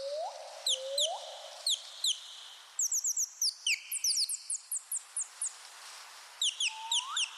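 Birds chirping: clusters of short, quick, high chirps, with a pair of rising whistled notes at the start and again near the end.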